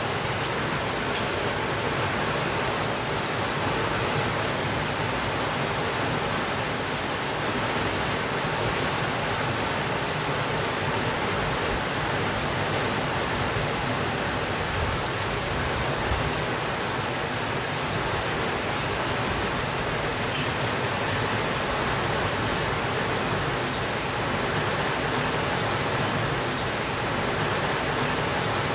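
Steady rainfall: an even, unbroken hiss of rain with a few faint scattered ticks.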